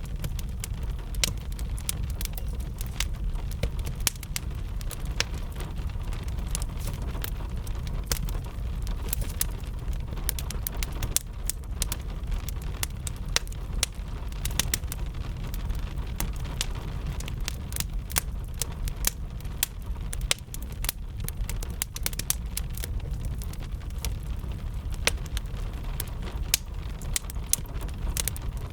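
Wood fire crackling with frequent irregular sharp pops, over a steady hiss of rain and a constant low rumble.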